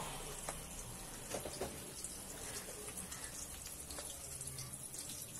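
Sliced onions and chopped tomato frying in oil in a pot: a soft, steady sizzle with scattered small crackles.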